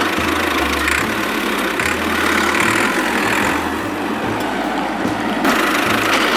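A small motor running steadily, with an uneven throb underneath.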